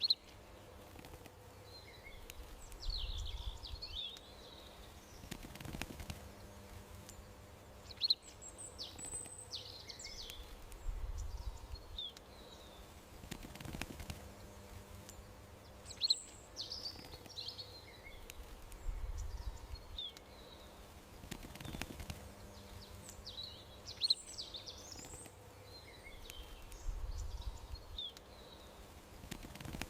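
Small songbirds chirping and twittering in a garden ambience, in clusters of short high calls, with the same pattern recurring about every eight seconds as in a looped soundtrack. A faint steady hum lies underneath.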